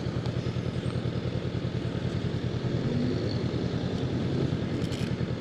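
Honda CB500X's parallel-twin engine running steadily while riding, with an even pulsing beat.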